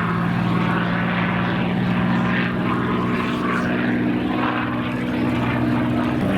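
P-51 Mustang's Packard Merlin V-12 engine and propeller droning steadily as the fighter flies its aerobatic display, with a slight drop in engine pitch near the end.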